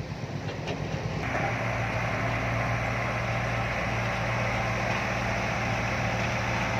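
Diesel truck engine running, getting louder about a second in and then holding steady.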